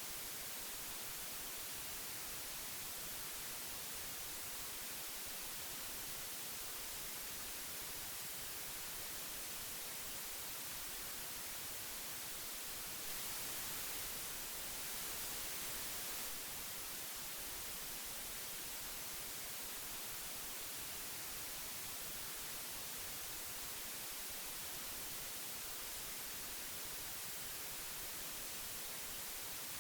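Old audio tape hiss: a steady, even hiss, strongest in the high end, that grows slightly louder and brighter for about three seconds near the middle.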